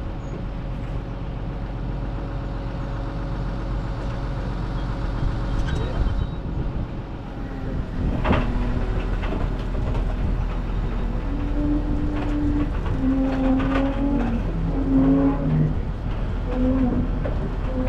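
Kobelco 210 excavator's diesel engine running, with a sharp metallic clank about eight seconds in and short whining tones that step up and down in pitch in the second half as the machine is worked.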